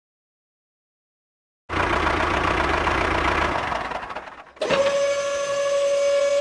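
Silence for over a second, then a motor vehicle engine running with a low rumble that fades away. About two-thirds of the way through, a steady, even-pitched tone like a horn or siren starts and holds.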